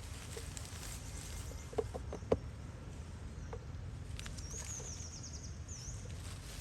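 Outdoor ambience with a steady low rumble and a few light taps, then a high, rapidly repeated trilling call from about four to six seconds in.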